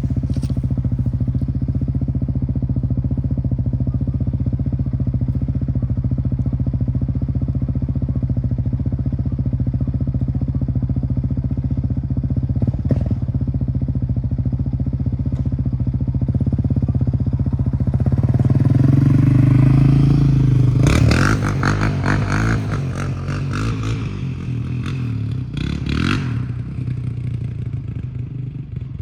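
Yamaha Raptor 700R's single-cylinder four-stroke engine idling steadily, then revved higher for a couple of seconds about two-thirds of the way through. A run of sharp throttle blips follows before it drops back to a lower idle.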